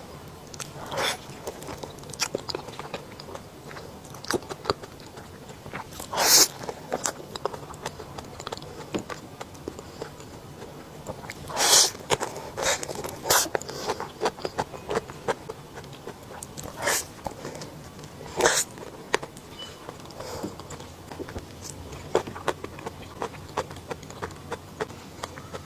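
A person biting and chewing crunchy food, with irregular crackling crunches and a few louder bites spread through.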